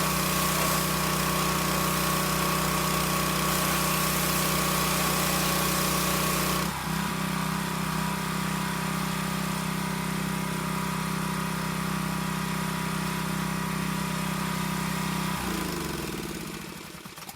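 The 212cc single-cylinder engine of a Harbor Freight Predator 3100 PSI pressure washer running steadily under the hiss of the water spray. The hiss eases off about seven seconds in. Near the end the engine is shut off and its pitch falls as it winds down to a stop.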